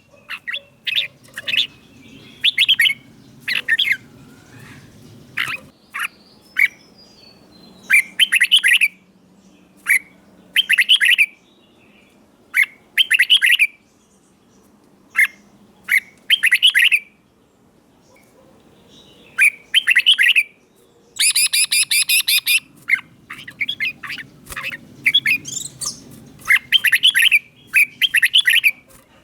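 Red-whiskered bulbul singing: short, bright, warbled phrases repeated every second or two with brief pauses. This is the 'double' (เบิ้ล) southern-style song used to teach young birds and to rouse caged bulbuls.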